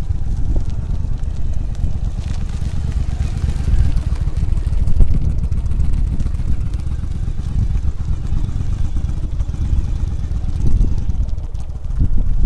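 Wind buffeting the microphone over a Yamaha Drag Star 1100's V-twin engine running at low speed during slow turns.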